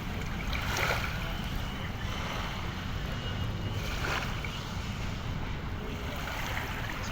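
Water waves washing, with noise swelling about a second in and again about four seconds in, over a steady low wind rumble on the microphone.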